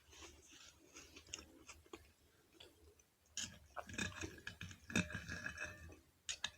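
Close-up chewing and mouth sounds of eating stuffed bok choy rolls filled with ground beef, rice and kimchi. From about halfway through come louder, sharper clicks with brief ringing tones.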